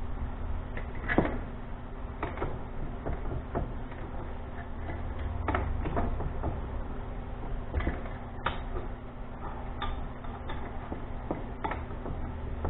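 Scattered clanks and knocks of metal parts and tools being handled at a bench vise, the sharpest about a second in, over a steady low hum.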